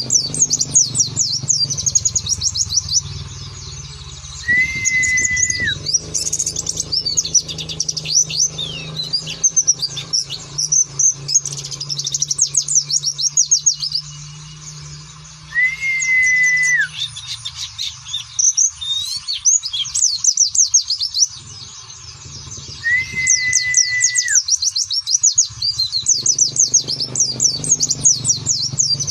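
White-eye (pleci) twittering in dense runs of fast, high-pitched chirps, with a flat whistled note about a second long, dropping at its end, heard three times. A low steady hum runs under the middle part.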